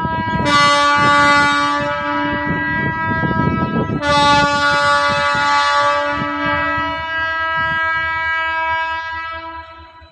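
Train air horn sounding loudly in two long, multi-tone blasts, the second starting about four seconds in, fading out near the end, with irregular rattling and clanking of the passing train beneath.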